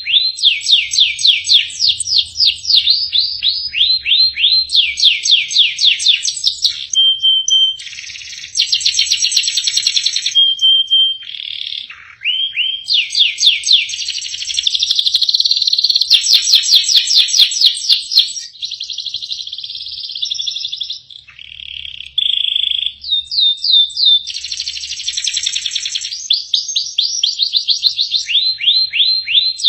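Domestic canary singing a long, varied song. It runs fast repeated trills and rolls into dense buzzy passages, with a few short, steady whistled notes between phrases.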